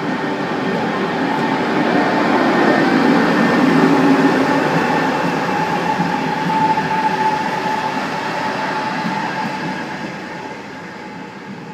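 A train passing at a station. Its rumble swells to a peak about four seconds in and then fades away, with a steady whine in the middle.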